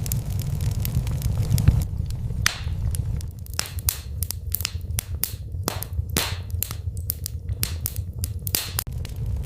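Wood fire crackling in a fireplace: a steady low rumble of flames with sharp pops and snaps, which come thick and fast from about two seconds in.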